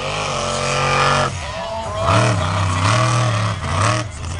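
Monster truck engine revving hard in repeated surges, about four in a few seconds, each climbing in pitch and then dropping off.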